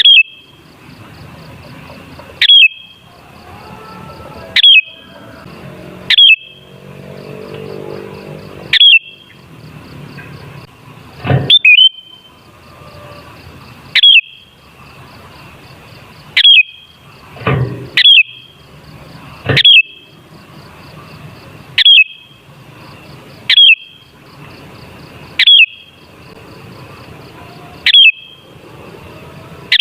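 Sooty-headed bulbul (kutilang) giving short, sharp calls that sweep down steeply into a note near the top of its range, repeated evenly about every two seconds.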